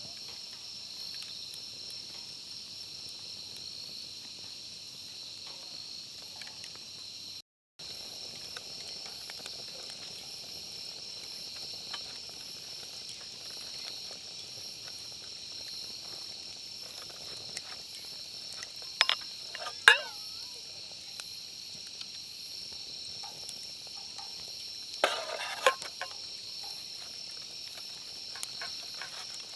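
Steady chorus of insects chirring, with a fine rapid pulse, that drops out for a moment about a quarter of the way in. Two short bursts of sharp clicks or clinks, about two-thirds of the way through and again near the end, stand out above it.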